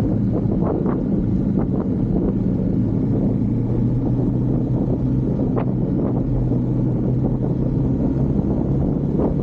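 Husqvarna Svartpilen 401's single-cylinder engine running at a steady speed on the move, with wind rushing over the microphone. A few short sharp knocks are scattered through it.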